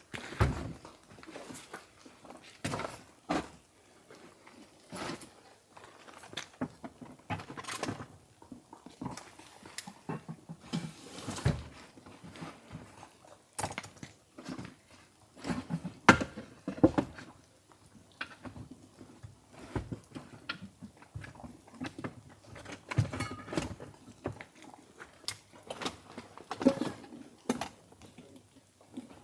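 Irregular clicks, knocks and short rustles, with a few louder knocks about halfway through and again a little later.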